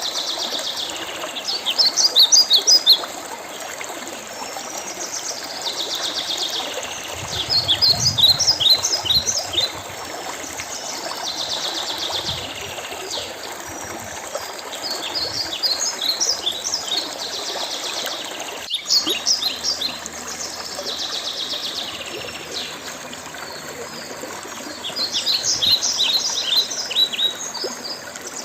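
A songbird repeats a short song phrase about every six seconds, a buzzy trill followed by a quick run of high sharp notes. Under it runs the steady rush of a stream.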